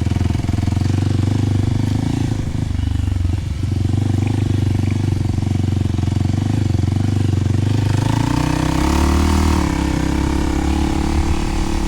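Kawasaki KLX300 single-cylinder four-stroke engine running through a Delkevic 10-inch oval slip-on exhaust. The note is steady, then rises in pitch about eight seconds in and eases back a couple of seconds later.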